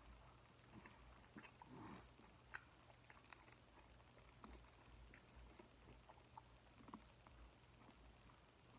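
Faint chewing: soft, irregular mouth clicks and small crunches of a person eating, over a quiet low hum.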